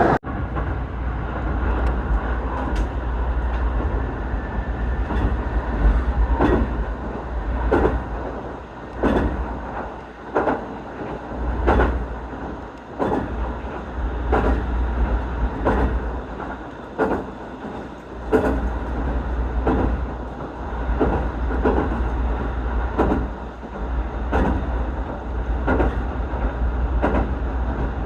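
Inside a moving electric commuter train car: a steady low rumble with wheels clacking over rail joints, a clack about every second and a half.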